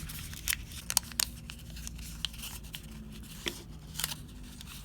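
Folded origami paper crinkling and rustling in the hands as it is pinched and worked open into a bowl shape, with scattered sharp crackles.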